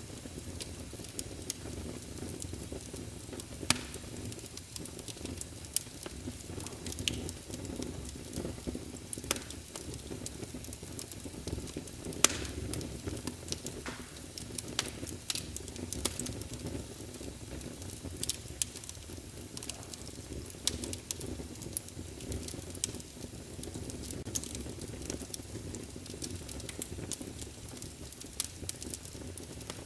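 Wood fire crackling in a fireplace: a steady low rumble and hiss of the flames, with irregular sharp pops and snaps, two of them louder, about four seconds and twelve seconds in.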